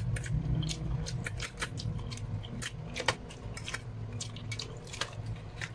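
Close-up eating noises: chewing and mouth smacks with a scattered run of small sharp clicks, over a low steady hum.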